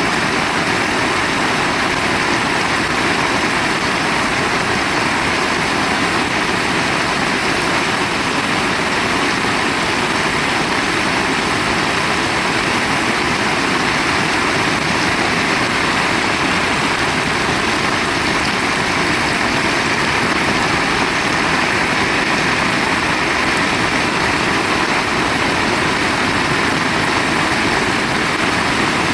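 Heavy rain falling hard and steadily, a dense even hiss with no let-up.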